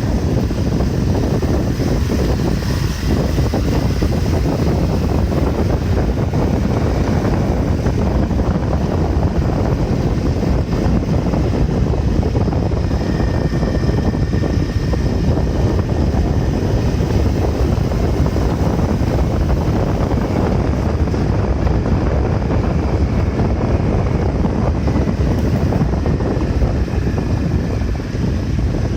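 Steady wind rush and riding noise from a moving motorbike, with the wind buffeting the microphone.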